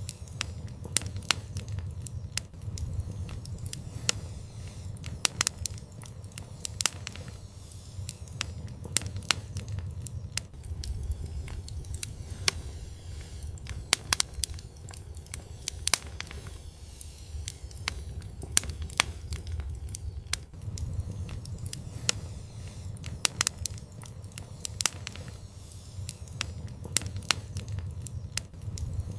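Wood fire in an outdoor fireplace crackling, with frequent sharp, irregular pops over a low rumble of the flames that swells and eases every few seconds.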